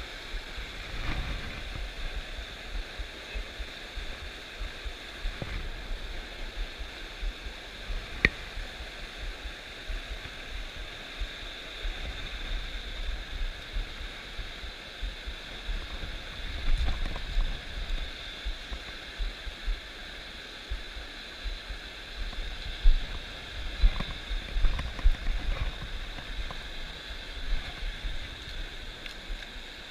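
Stream water rushing steadily, with scattered low thumps and a few short clicks over it.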